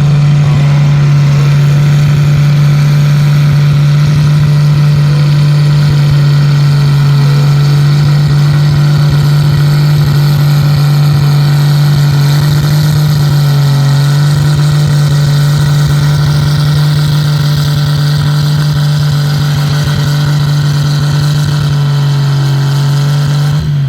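Pulling tractor's engine running steady at full throttle under heavy load as it drags a weight-transfer sled down the track, the note holding level for the whole pull and starting to drop right at the end as the engine comes off.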